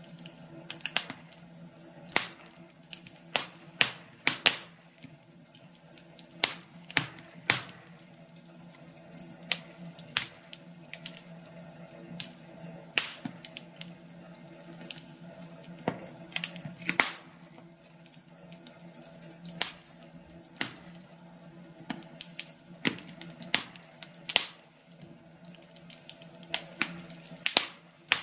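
Wood fire crackling, with irregular sharp pops and snaps from the burning logs, some much louder than others, over a faint steady low hum.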